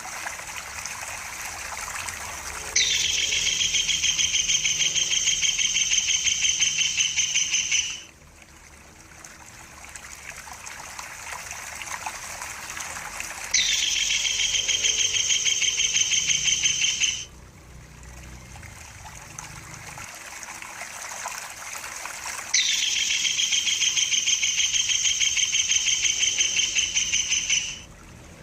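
Tengkek buto kingfisher calling in three long bouts of rapid, high-pitched rattling trill, each about four to five seconds, over a steady trickle of running water.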